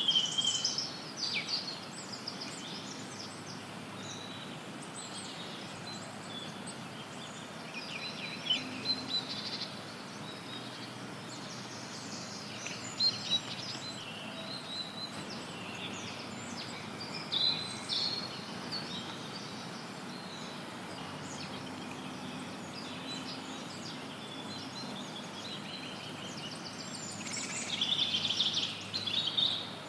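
Forest songbirds chirping and singing in short, high flurries, the busiest near the start and near the end, over a steady hiss of added background noise.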